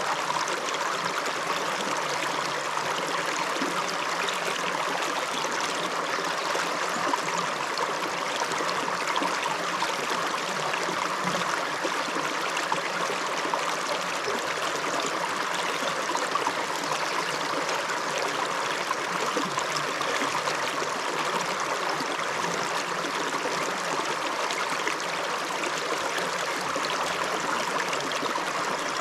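A shallow upland river running over stones, a steady rushing and babbling flow that does not change.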